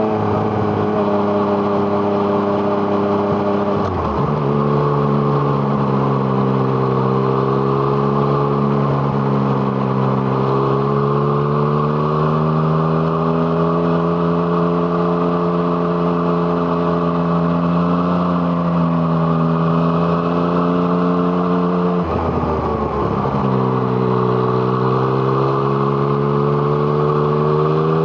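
2017 Yamaha MT-09's three-cylinder engine through an Arrow Thunder aftermarket exhaust, heard from on board while riding. The engine note falls and rises with the throttle, with two brief breaks in the note, about four seconds in and again past the twenty-second mark, where the pitch drops and then climbs again.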